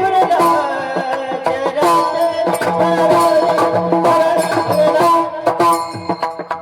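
Marathi kirtan music: a hand drum playing a steady beat under held melodic notes, with no singing.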